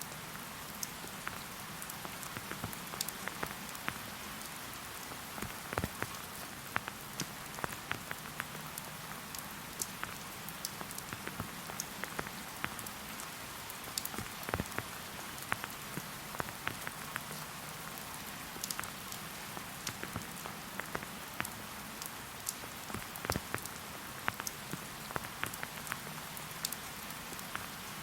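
Steady rain falling in a forest: an even hiss with many individual drops ticking sharply close by.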